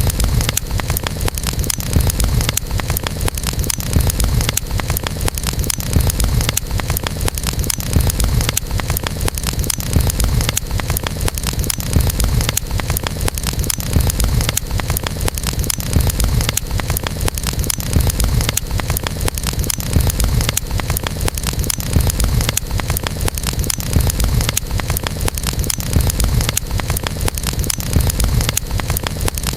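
Wood campfire burning: a steady low rumble of flames with many small crackles and pops.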